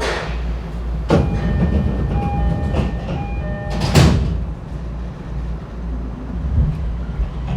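E231-1000 series commuter train at a station stop: the door chime sounds as a short series of tones, then the sliding doors shut with a loud thump about four seconds in, over the steady low hum of the standing train.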